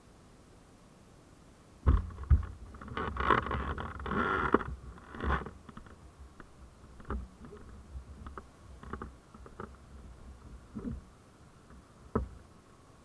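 Irregular knocks, clicks and rustling, loudest in a cluster between about two and five seconds in, then scattered lighter clicks and one sharp knock near the end.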